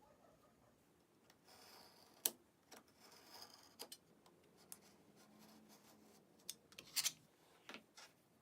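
Faint, scattered clicks and soft scraping of a blade cutting through thick leather.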